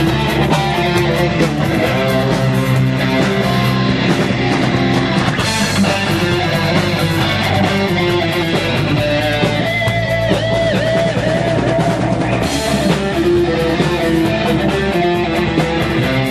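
Instrumental break of a rock song: electric guitars over a drum kit, with a held lead-guitar note wavering in vibrato about two-thirds of the way through.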